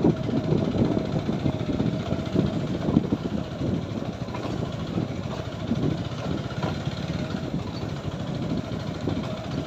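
Motorcycle engine running while riding along an unpaved, broken road, giving a continuous low rumble that jolts unevenly.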